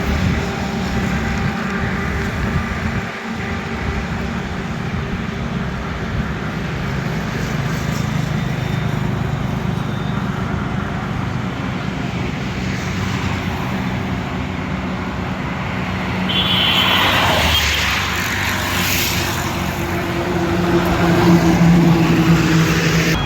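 Highway traffic: engines of trucks and cars running with a steady hum, and one vehicle passing close with a rising and falling whoosh about three quarters of the way through.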